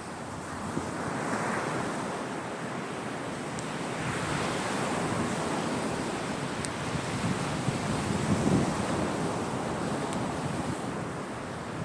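Sea waves breaking and washing on the shore, the surf swelling and easing every few seconds, with wind on the microphone. A few faint clicks sound over it.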